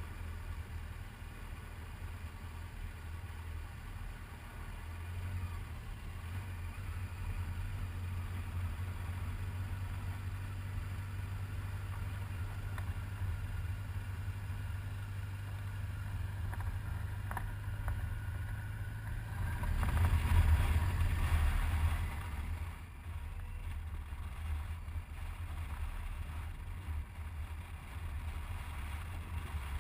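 Low, steady vehicle engine rumble, swelling louder for a couple of seconds about twenty seconds in, like a vehicle going by.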